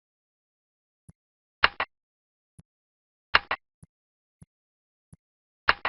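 Clicking, most likely a computer mouse: three sharp double clicks about 1.7 s apart, with fainter single ticks between them.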